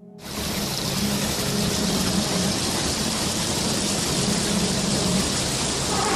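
A steady rush of water starts just after the opening and holds level throughout, with a faint low hum beneath it.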